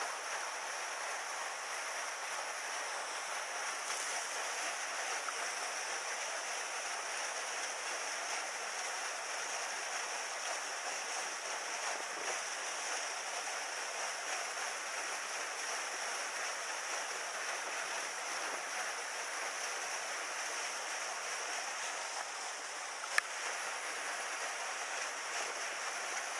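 Mountain stream water rushing steadily, with one sharp click near the end.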